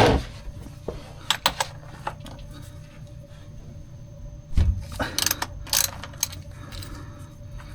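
A wrench working on an engine-oil drain plug: a few sharp metallic clicks, a thump about halfway through, then short scraping noises.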